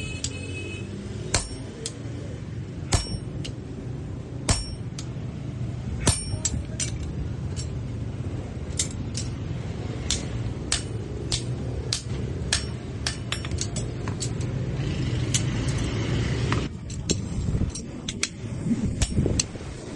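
Hammer blows on steel at a forge, sharp and irregularly spaced, a blow every half second to second and a half, over a steady low rumble.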